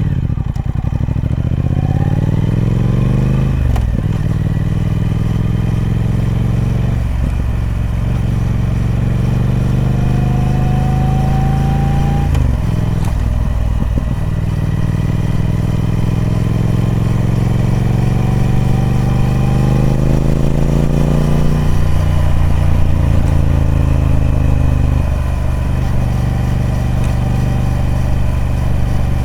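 Triumph Speed Twin 1200's parallel-twin engine through its stock exhaust, running under load. The engine note climbs steadily, then drops sharply several times, first about four seconds in and again around seven and thirteen seconds.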